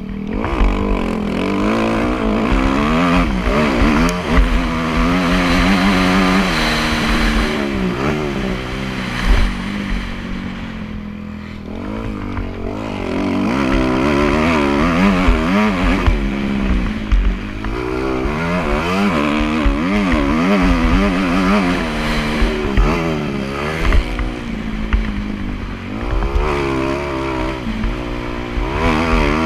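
Motocross bike engine revving up and down over and over as it is ridden, the pitch climbing and dropping with the throttle; it eases off for a couple of seconds about ten seconds in.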